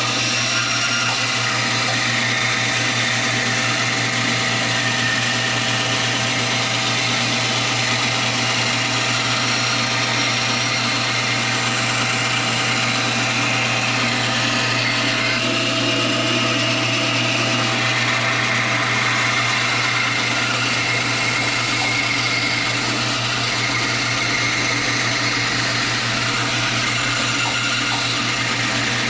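Electric woodworking power tool running steadily, a constant motor hum with a noisy whirr over it.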